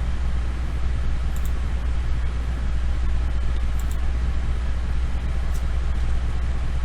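Steady low hum of background noise with a few faint clicks.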